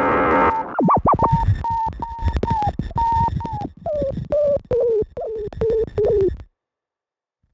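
Glitchy experimental electronic music from Bastl Kastle and Korg Volca Modular synthesizers. A chopped, stuttering synth tone wobbles about a second in, then steps down in pitch over low pulses, and cuts off suddenly to dead silence near the end.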